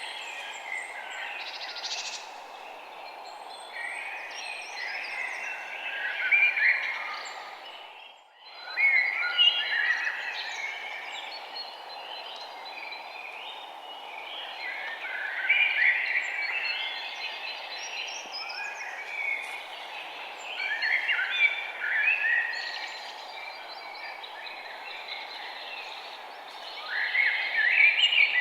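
Several small songbirds chirping and twittering in overlapping bursts over a steady background hiss. The sound briefly dips almost to nothing about eight seconds in.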